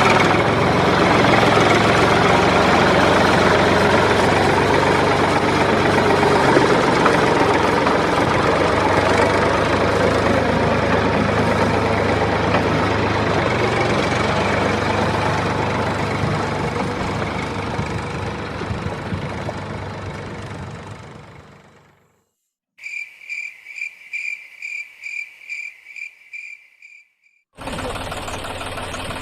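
A small motor runs steadily with a dense mechanical whirr and a low hum, then fades out about 20 seconds in. After a short pause, a high beeping tone pulses about two to three times a second for several seconds. The motor noise then starts up again near the end.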